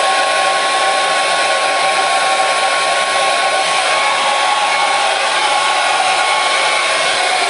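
Hair dryer running steadily: a constant rush of air with a steady motor whine over it.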